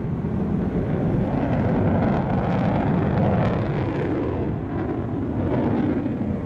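Fighter jet engines passing during a flying display: a loud, deep, rushing noise that builds over the first couple of seconds and then holds.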